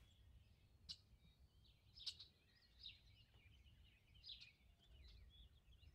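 Near silence with faint birds chirping and twittering in short scattered phrases.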